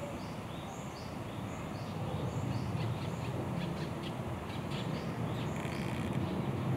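A bird repeating a short, high, downward-slurred call about twice a second, fading out near the end. Under it runs a low, steady background rumble that grows a little louder about two seconds in, with a few faint clicks.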